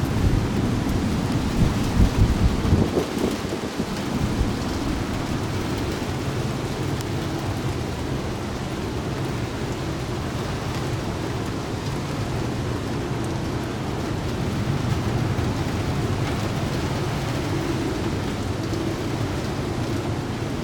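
Heavy thunderstorm rain falling steadily, with a low rumble of thunder during the first three seconds or so.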